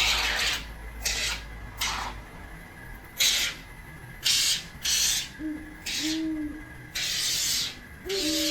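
Can of polyurethane expanding foam spraying in short hissing squirts, about nine in a row, as the foam is laid onto the walls.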